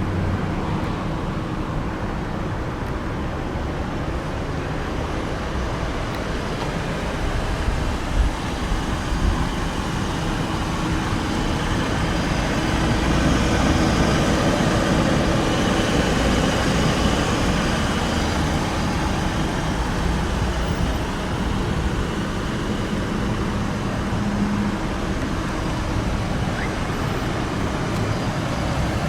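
Steady vehicle and road-traffic noise, swelling louder for several seconds midway, with a couple of brief knocks about eight seconds in.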